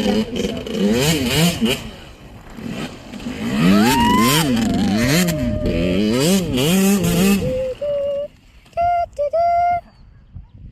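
Dirt bike engine revving hard, its pitch rising and falling over and over as the throttle is worked. It settles into a few short, steady, higher notes near the end.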